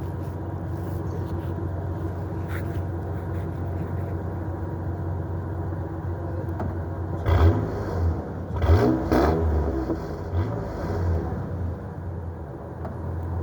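Ford F-150's 4.2-litre V6 idling steadily through its exhaust, then revved in a few quick throttle blips starting about seven seconds in before settling back to idle.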